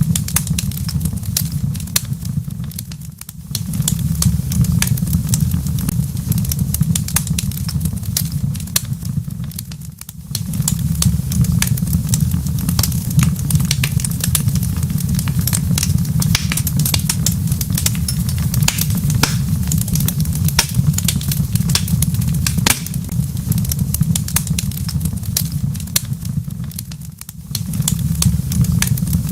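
Wood fire in a fireplace crackling, with frequent sharp pops over a steady low rumble. The rumble drops away briefly three times.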